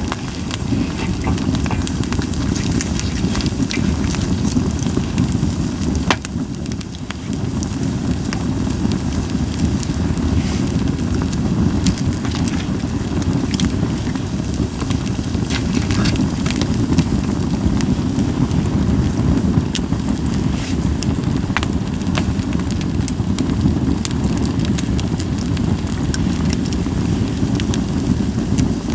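Japanese white pine firewood burning in a fire pit, crackling with frequent scattered sharp pops over a steady low rumble, with little hissing.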